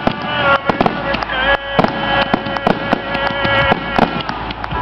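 Aerial fireworks shells bursting in quick succession, many sharp bangs a second, over music playing.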